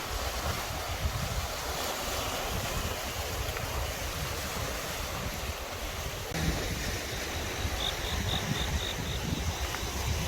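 Wind buffeting the microphone over the steady wash of surf on a beach. About eight seconds in there is a quick run of about six short, high peeps.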